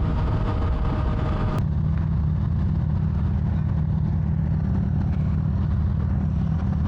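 Motorcycle engine running steadily under way, a low even drone. About a second and a half in there is a sharp click, after which the higher noise drops away and the engine's low drone remains.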